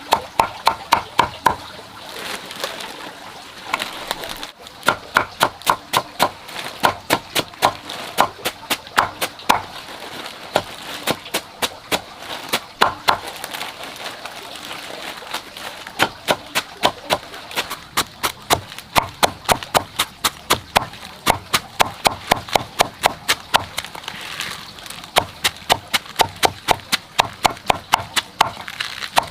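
Cabbage being chopped rapidly with a knife for pig feed, about four sharp strokes a second, in long runs broken by short pauses.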